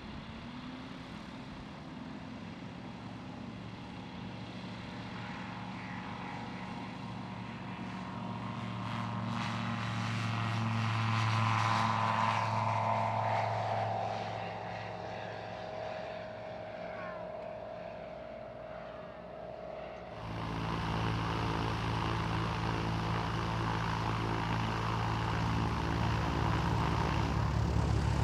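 Light propeller aircraft engine passing, its pitch falling as it goes by around the middle. About 20 s in the sound changes abruptly to a propeller engine running steadily and louder.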